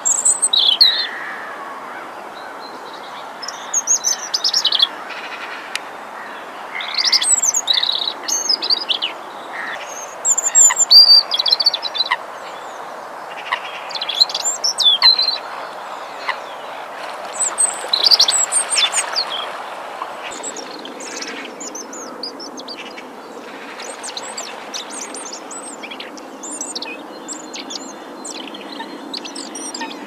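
Songbird singing short, high phrases every few seconds over a steady background hiss; after about twenty seconds the phrases give way to quicker, fainter chirps.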